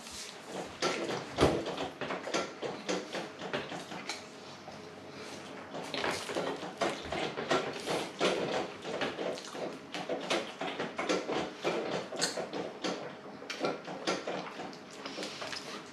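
A person biting and chewing a lahmacun, heard close up: irregular clicking and crackling mouth sounds, with no steady rhythm.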